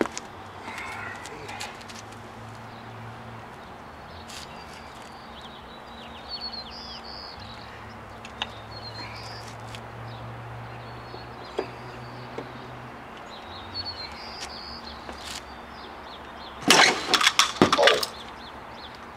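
Small birds chirping faintly against a quiet background. Near the end, a loud rattling clatter of just over a second: a start attempt on the OS .46AX glow engine goes wrong and a part at the model's nose that had been tightened comes loose.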